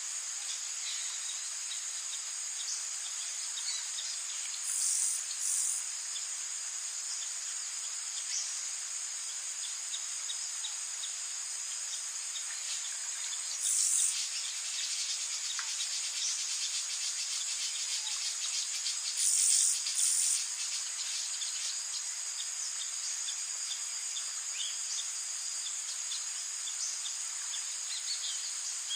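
Rainforest insects singing as a steady, high chorus, with scattered short bird chirps. Short, louder bursts of high-pitched calling break through twice near the start, once about halfway through and twice more a few seconds later.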